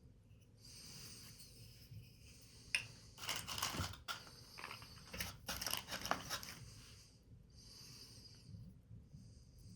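Paper rustling and crinkling as it is handled, with two louder spells of crackling about three and five to six seconds in.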